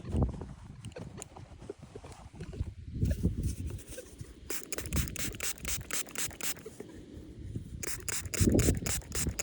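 Quick scraping and rubbing strokes in two runs, one about halfway through and one near the end, over low thumping handling noise.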